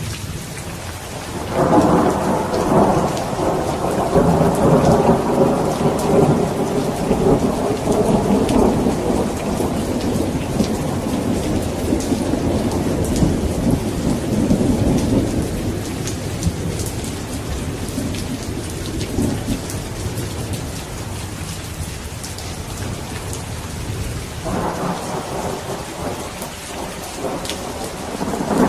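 Steady heavy rain with rolling thunder: one long rumble builds about a second and a half in and fades away over some fifteen seconds, and a second rumble rises near the end.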